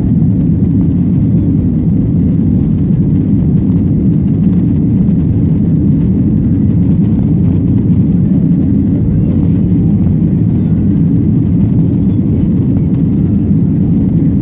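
Steady, loud rumble of a Boeing 737-800's CFM56 jet engines and rushing air, heard inside the cabin from the rearmost row.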